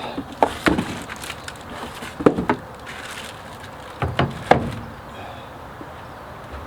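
Handling noises as the parts from a solar charge controller box are picked up and set down: a handful of sharp knocks and taps, coming in pairs, then quieter toward the end.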